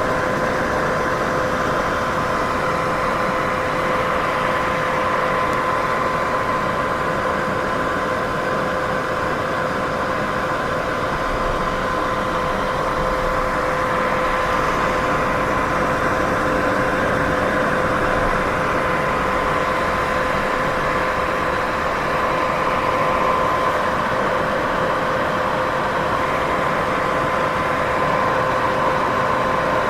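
Steady sleep-aid white noise, an even hiss centred in the middle range with a faint steady hum running through it, unchanging throughout.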